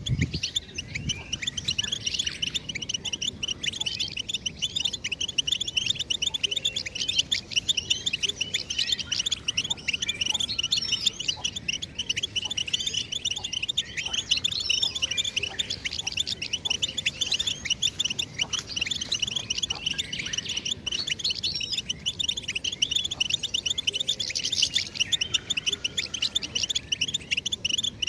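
European goldfinch singing a continuous, rapid twittering song of quick high chirps and trills, without pause.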